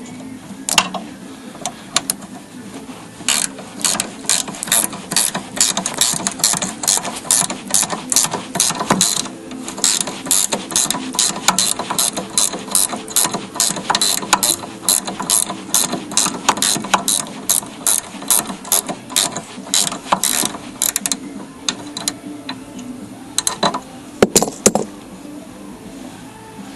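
Hand ratchet wrench clicking in quick, regular strokes as bolts are run in and tightened, stopping about 21 s in, with a few more clicks a little later.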